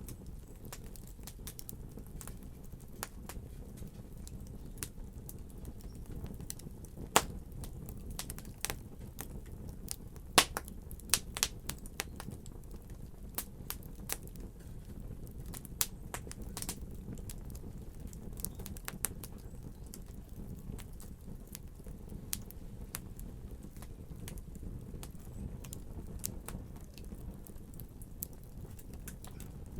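Fire burning in a fireplace: a steady low rumble of flames with irregular sharp crackles and pops, a few louder pops about a third of the way in.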